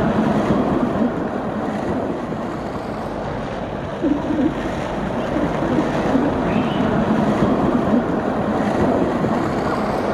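Tram running past on the street track, a steady rolling noise of wheels on rail that eases off slightly near the end.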